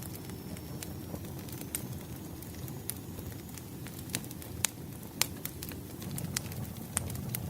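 Wood fire burning, a low steady rush with sharp crackles and pops of the logs at irregular intervals, about eight distinct pops. A faint thin high whistle runs through the first few seconds.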